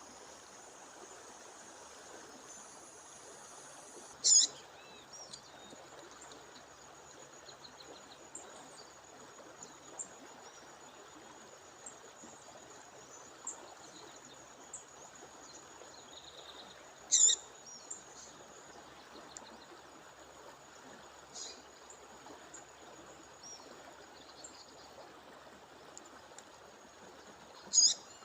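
A bird gives a short sharp call three times, about 4 s, 17 s and 28 s in, with a few faint chirps between, over a steady rush of flowing water. A thin, steady, high-pitched tone runs underneath.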